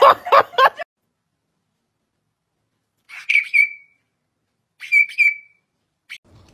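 Two short, high, whistle-like squeaks about a second and a half apart, each a quick pair of notes.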